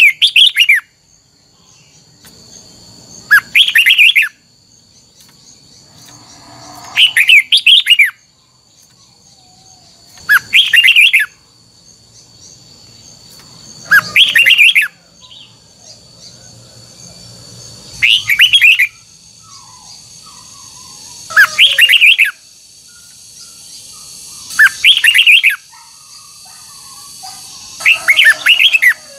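Red-whiskered bulbul singing the same short, rapid, warbling phrase over and over, about a second long and repeated every three seconds or so, nine times. A faint steady high whine runs underneath.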